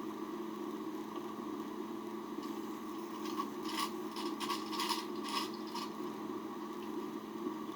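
Faint clicks and scrapes of tools and metal parts being handled, clustered from about two and a half to six seconds in, over a steady hum.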